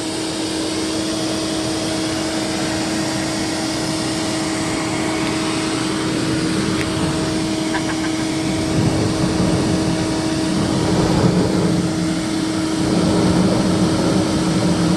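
A steady machine running noise, like a motor-driven fan or blower: a rushing hiss over a constant hum, getting louder and rougher from about nine seconds in.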